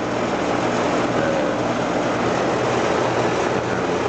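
A 3-ton Carrier heat pump's outdoor unit running steadily: the condenser fan's rush of air over a steady low hum from the compressor.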